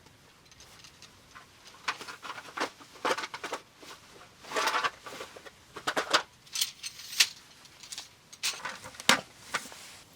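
Irregular handling noises: a run of clicks, taps and rustles of objects being moved about, starting about two seconds in, with the sharpest knocks near the end.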